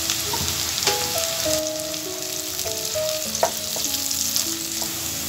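Sliced onions and green chilies sizzling in hot oil in a pan while a wooden spatula stirs them, knocking against the pan about a second in and again about three and a half seconds in. A soft background melody of held notes plays over it.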